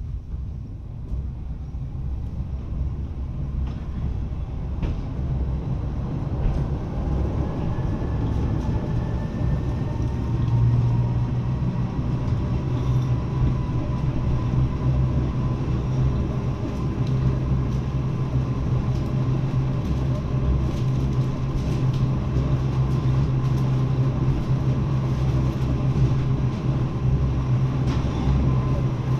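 Lausanne–Ouchy rack-railway train heard from on board, pulling away on the downhill run: the running noise builds up over the first ten seconds or so, with a faint rising motor whine, then settles into a steady rumble.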